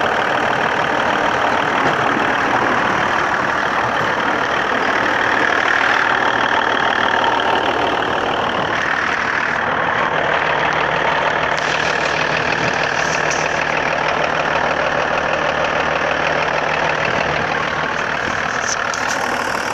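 BMW M51 2.5-litre inline-six turbodiesel running, with a persistent knock that seems to come from between the gearbox and the engine and is felt through the clutch pedal. The cause is unknown: the gearbox, flywheel, clutch and vacuum pump have already been replaced and the fuel system has been worked on without curing it.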